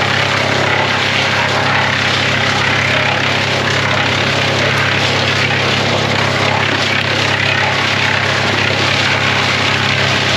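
Vermeer BC1000 wood chipper running steadily at a constant high throttle.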